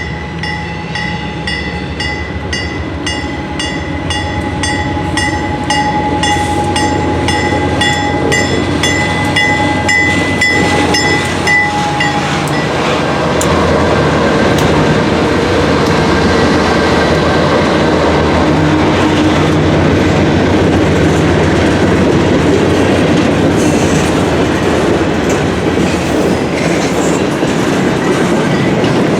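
Freight train hauled by two Dash 8-40CM diesel locomotives passing close by. For the first twelve seconds a steady whine and a rapid regular ringing sound over the approach, then fade out. After that the train grows louder and becomes a steady rumble of the freight cars' wheels clattering over the rail joints, with some wheel squeal.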